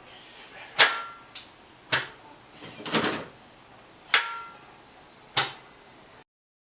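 Sharp metallic clanks and clicks from tools and engine parts being handled, about one a second, a few with a brief ringing tone. The sound cuts off abruptly to silence near the end.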